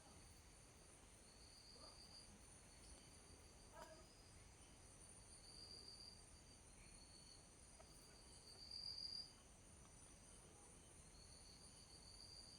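Faint steady chorus of high-pitched insect trills, crickets or similar. Several trills hold on together, and a lower one swells up for a second or so at a time, several times, loudest about two-thirds of the way through.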